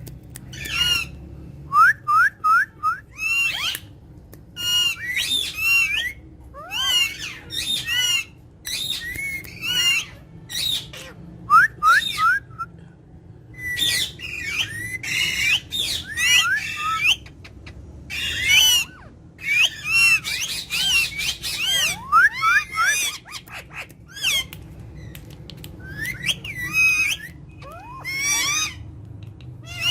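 Pet parrots calling: many short squawks and whistles that glide up and down in pitch, coming in quick runs with short pauses between.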